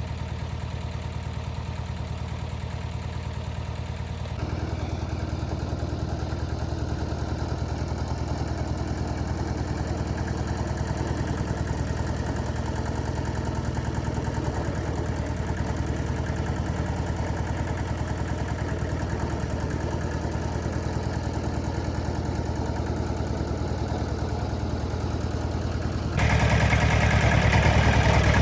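A vehicle engine running steadily at idle, its level jumping up suddenly about four seconds in and again near the end.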